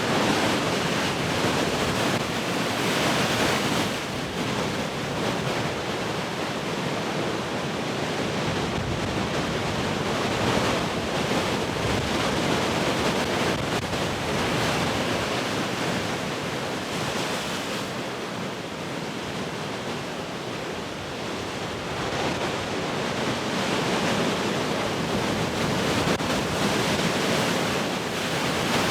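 Large ocean waves breaking and washing as surf, a continuous rush that swells and eases every few seconds, with wind blowing on the microphone.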